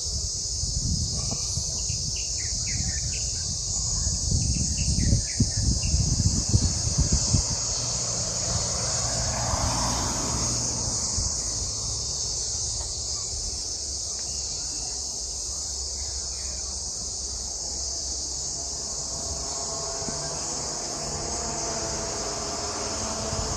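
Cicadas droning steadily in a dense chorus, with a few short bird chirps in the first several seconds. Irregular low rumbles are loudest about four to seven seconds in.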